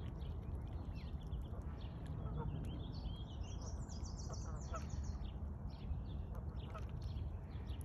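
Birds chirping in many short high notes, busiest about three to five seconds in, over a steady low rumble.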